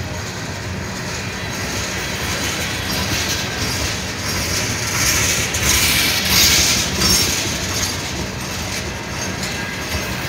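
Freight train tank cars rolling past close by, their steel wheels running on the rails in a continuous noise that swells louder for a couple of seconds about halfway through.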